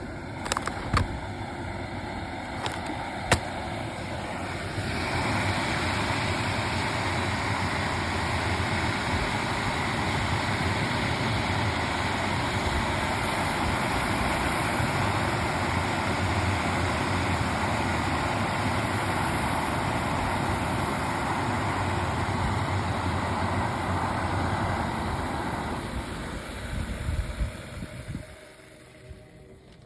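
A few sharp clicks, then the steady rushing sound of a Jetboil Flash canister-gas burner, which starts about four seconds in and fades out near the end.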